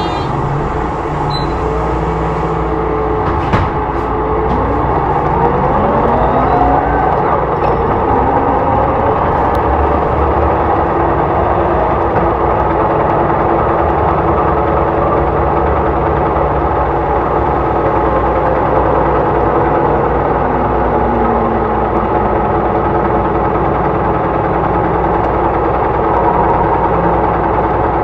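Hyundai Blue City low-floor hybrid bus running on its G240 engine and electric drive motor: a steady engine drone, with rising motor whines about five seconds in and a shorter whine later.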